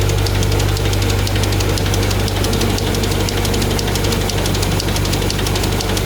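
Automatic tissue-folding machine running: a steady motor hum under a rapid, even mechanical clatter. It is running on newly replaced bearings and is being checked for overheating.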